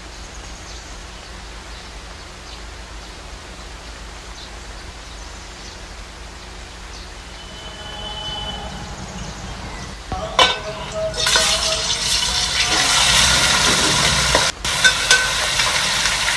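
Raw chicken pieces sizzling loudly in hot oil in a steel pan on a high flame, starting suddenly about ten seconds in with a few sharp knocks, after a quiet stretch of low steady hum.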